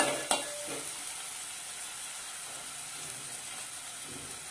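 Chopped onions and dried red chillies sizzling in hot oil in a metal pan, with two ladle knocks against the pan in the first half second, then a steady frying hiss.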